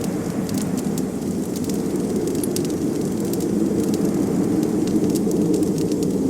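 Wood fire crackling, with many small sharp pops and ticks scattered irregularly over a steady low rush of blizzard wind.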